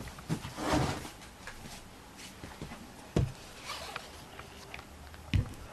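Irregular light taps, knocks and a brief rustle of craft materials being handled on a work table, as loose pieces of wire are pulled off a decorated canvas, with a sharper knock about three seconds in and another near the end.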